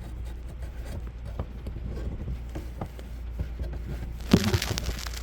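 Hands working a rubber vacuum hose loose behind a truck's dashboard: scattered light clicks and knocks, with a louder clatter of knocks about four seconds in.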